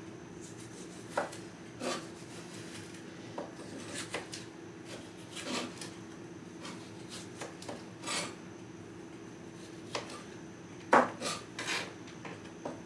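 Kitchen knife cutting vegetables on a chopping board: scattered, irregular knocks of the blade against the board, with a louder pair of strikes near the end.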